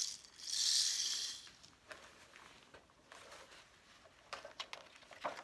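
Rain stick tipped over, its beads cascading down inside it in a hiss that fades out after about a second and a half. A few faint clicks and taps follow near the end.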